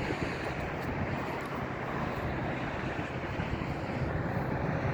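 Steady rumble of airport noise, distant jet aircraft engines, with no single event standing out.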